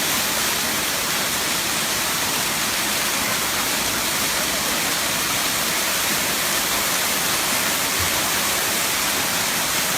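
The seventh tier of Erawan Falls, a waterfall, rushing steadily: an even hiss of falling water with no breaks.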